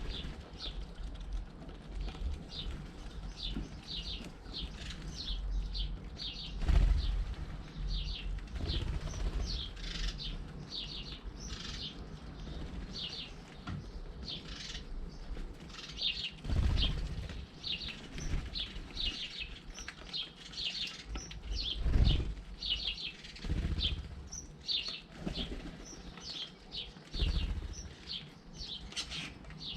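Garden birds at a feeder chirping in short calls repeated over and over, with wingbeats of birds flying in and out close by that make a few loud low flutters.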